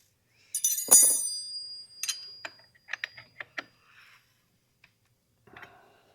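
Wrenches working on a dirt bike's rear axle nut as it is tightened: a loud metal clink that rings on briefly about a second in, followed by a run of lighter metallic clicks.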